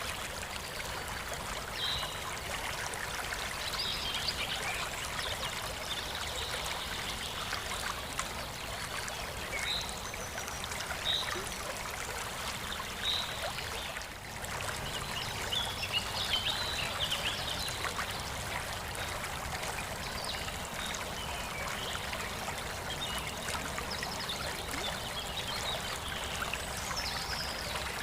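Running water trickling steadily, with scattered short high-pitched notes over it.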